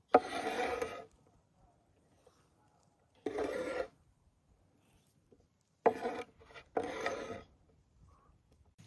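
Four short rasping scrapes, each lasting under a second, with near silence between them; the last two come close together.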